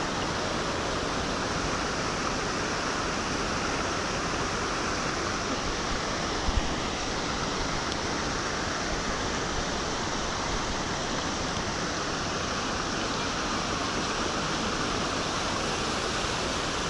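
Steady rushing of river water during a river crossing, with a brief knock about six and a half seconds in.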